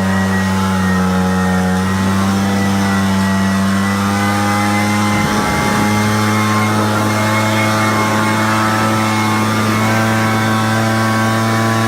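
Echo two-stroke backpack leaf blower running steadily while blowing fluffy snow off a walk, its engine note holding nearly even.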